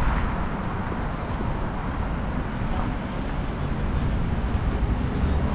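City street noise: a steady wash of road traffic, with a low rumble of wind on the microphone.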